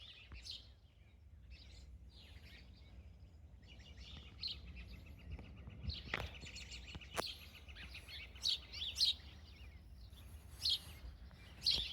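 Small birds chirping and calling: many short, high calls with a stretch of trilling, over a low steady rumble.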